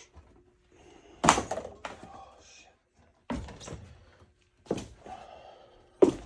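Four heavy thuds, roughly a second and a half apart, each trailing off in a short rattle, in a small room.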